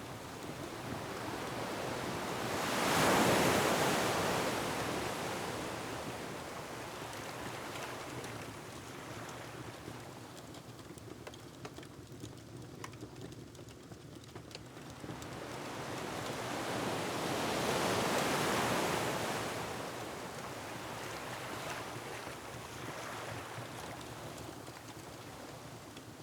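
Ocean waves breaking on a rocky shore, two big swells rising and falling away about fifteen seconds apart, over a steady wash of surf and wind. Faint crackles of a wood fire sound throughout.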